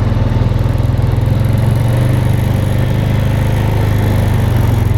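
Engine of a small farm vehicle running steadily at low speed, with a fast, even low throb.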